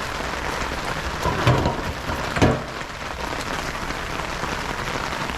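Freezing rain pattering steadily on surfaces, with two dull thumps about a second apart near the middle.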